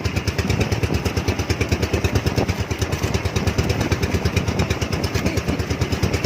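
Small engine running steadily at a low idle with an even, fast chugging beat.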